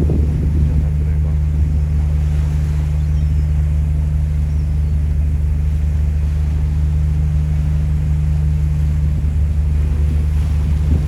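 Ferry engine running with a steady low drone of several constant deep tones, with a faint hiss over it.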